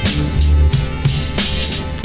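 Boom-bap hip-hop instrumental beat: kick drum and snare over a deep, sustained bass line.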